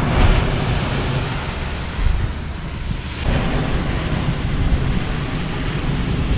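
Loud rushing surf from typhoon swell breaking on the shore, mixed with wind buffeting the microphone.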